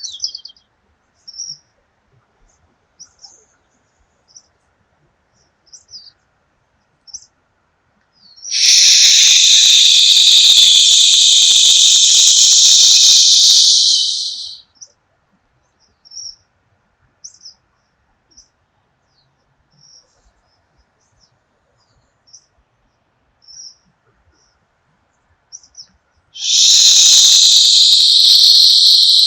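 Two long hissed 'shhh' exhales, the Taoist healing sound for the liver, each lasting about six seconds; the second begins near the end. Short faint bird chirps come between them.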